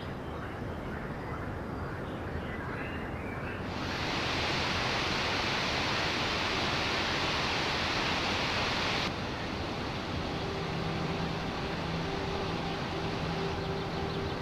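Steady rushing of river water, its level jumping up abruptly about four seconds in and dropping back about nine seconds in. A faint steady low hum joins it near the end.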